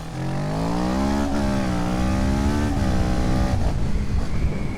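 Motorcycle engine accelerating, its pitch climbing with two short breaks, then the throttle shuts off about three and a half seconds in. Steady low wind and road rumble runs underneath.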